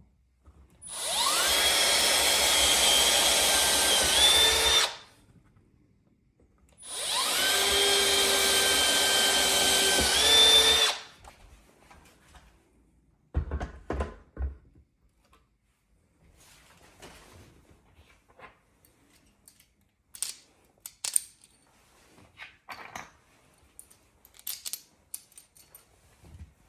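Power drill running in two bursts of about four seconds each, its pitch stepping up just before each stops, followed by scattered light clicks and knocks.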